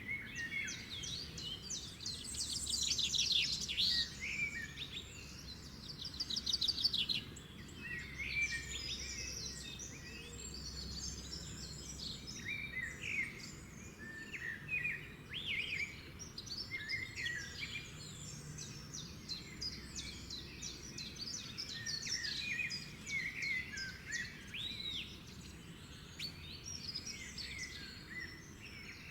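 A chorus of many wild birds singing and chirping over one another: trills, short whistles and quick chirps, with a steady low background rumble underneath.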